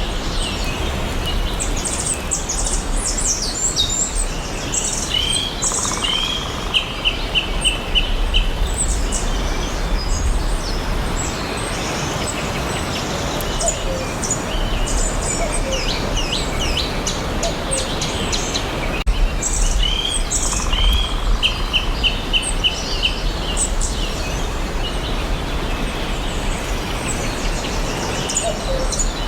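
Several forest birds chirping and singing with overlapping calls over a steady background noise. One bird gives a quick series of repeated notes twice, about fifteen seconds apart.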